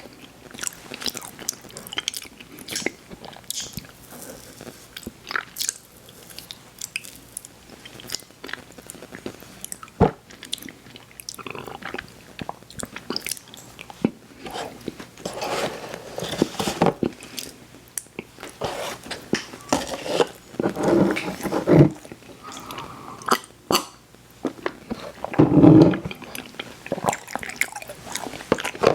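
Close-miked chewing and biting of sweets, with many small wet mouth clicks and a few louder, longer bursts of chewing.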